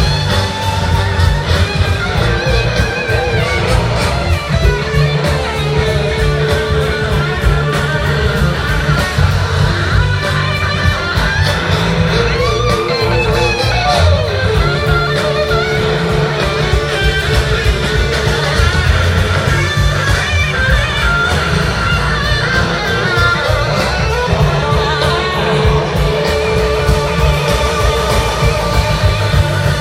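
Rock band playing live, an instrumental passage: an electric guitar lead with held, wavering notes and pitch glides over bass and drums.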